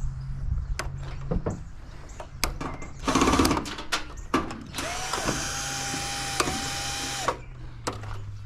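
Power drill run in a short burst about three seconds in, then running steadily for about two and a half seconds, winding up at the start, dipping briefly in the middle and winding down at the end. Sharp metal clicks and knocks come in between.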